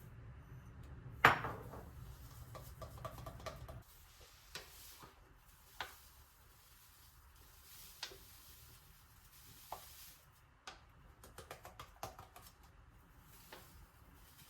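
Kitchen dishes and utensils clinking and knocking: one sharp clack about a second in, then scattered light knocks and a quick run of taps near the end. A low hum underneath stops about four seconds in.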